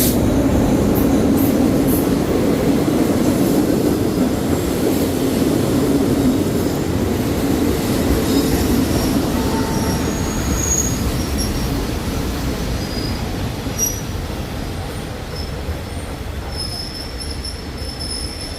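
State Railway of Thailand passenger train rolling on the rails: a steady rumble that slowly fades, with faint high-pitched wheel squeals coming in during the second half.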